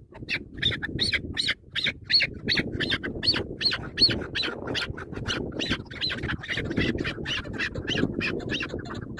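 Chukar partridge calling in a fast, steady series of short, harsh notes, about three a second.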